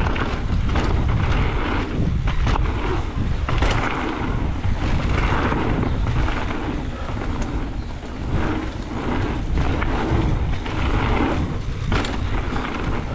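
Wind buffeting the microphone with a loud, uneven low rumble that gusts up and down.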